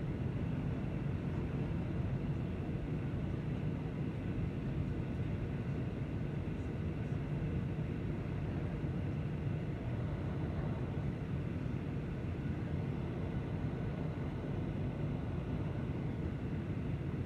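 Steady low drone of a passenger airliner's cabin in flight, engine and airflow noise, unchanging in level.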